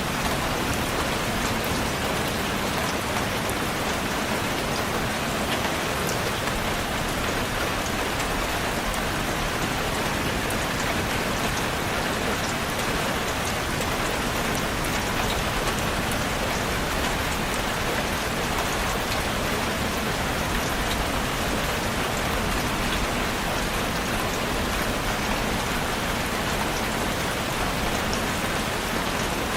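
Steady rainfall, an even hiss of rain with scattered fine drop ticks.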